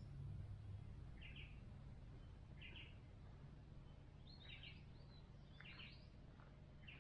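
Faint bush birdsong: five short chirping calls spaced roughly a second and a half apart, over a low steady background rumble.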